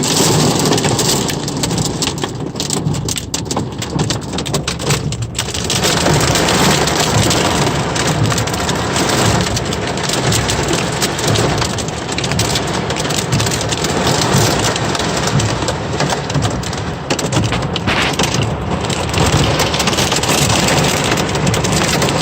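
Heavy rain falling in a thunderstorm, a loud steady hiss of drops hitting surfaces.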